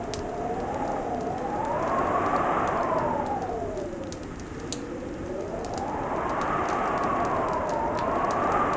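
Fireplace crackling, with scattered sharp pops, under a wind-like whistling tone that slowly rises and falls over a steady hiss.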